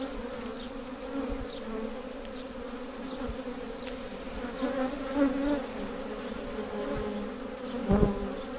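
Dense buzzing of a honey bee swarm, a steady wavering drone of many bees in flight close by. A short knock or rustle comes near the end.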